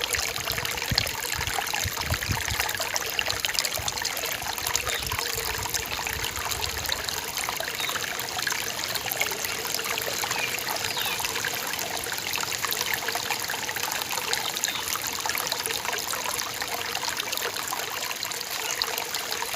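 Forest stream trickling and babbling steadily over rocks. A low rumble underneath drops away about seven seconds in.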